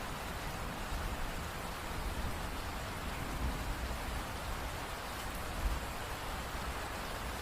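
Steady rain falling, an even hiss with low rumbling swells, the strongest a little before the end.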